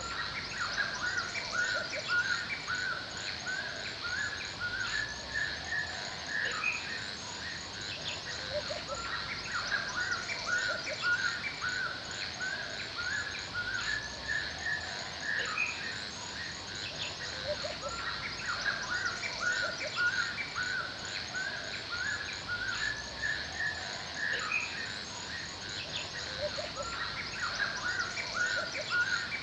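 Forest soundscape: many small birds chirping and calling almost without pause, over a steady high-pitched insect chirring.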